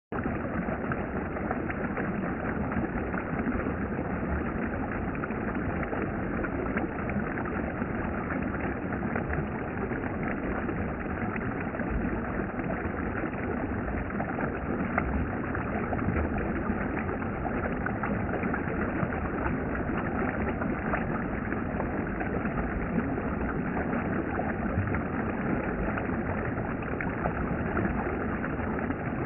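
Steady rushing of a valley stream, water flowing over rocks with an even hiss that does not change.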